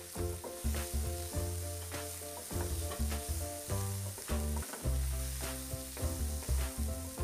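Diced vegetables sizzling in oil in a nonstick frying pan as they are stirred with a spatula, over background music with held notes and a moving bass line.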